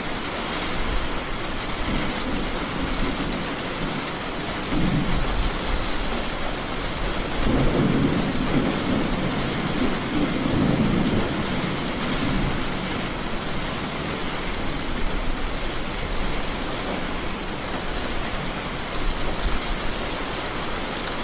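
Steady heavy rain with thunder rolling underneath, swelling into a long low rumble about halfway through and building again near the end.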